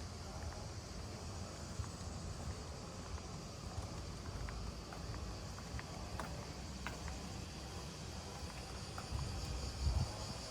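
Outdoor ambience: insects chirring steadily, with scattered light clicks and a low rumble of wind on the microphone.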